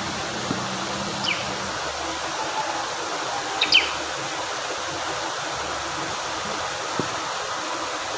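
Steady rush of fast-flowing stream water, with a bar-winged prinia giving two short, sharp, high chirps in the first half.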